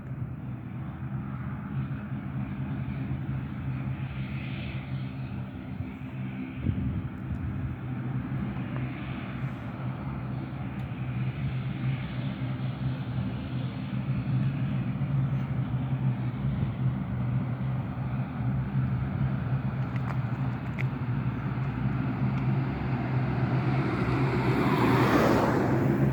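Jet airliner's engines running with a steady low hum, growing gradually louder, with a louder rushing swell near the end.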